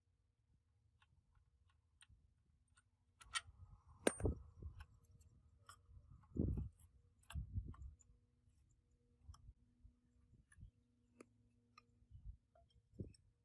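Scattered light clicks and several dull knocks of tools and metal parts being handled during gearbox work. The loudest knocks come about four and six and a half seconds in.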